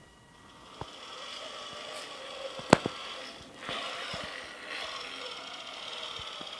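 Radio-controlled Bruder Scania model truck running, a steady mechanical whirr that builds up in the first second and dips briefly past the middle. A sharp click comes a little before the middle.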